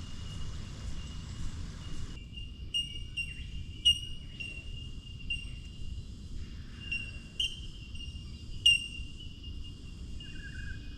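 Steady high-pitched insect trill, with short sharp chirps repeating over it every second or so. A low rumble runs underneath.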